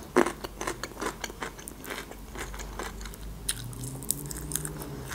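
Close-miked chewing of crisp food: a run of short, wet crunches and mouth clicks.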